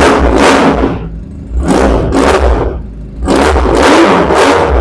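Kawasaki Ninja 400 cc twin-cylinder, water-cooled engine with an SC Project muffler, revved three times at standstill and dropping back to idle between blips. It gives a deep exhaust note with bass.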